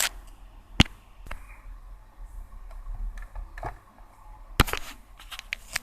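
About half a dozen sharp, separate clicks and knocks from hands handling an opened radio cassette recorder and its power lead, with the loudest two about a second in and near the middle.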